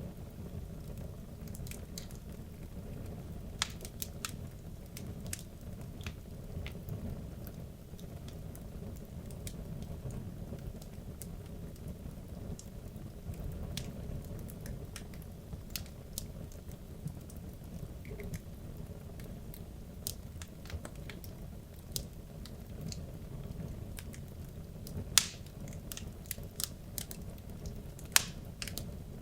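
Wood logs burning in a fireplace: a steady low rumble of flame with scattered crackles and sharp pops, the loudest pops about 25 and 28 seconds in.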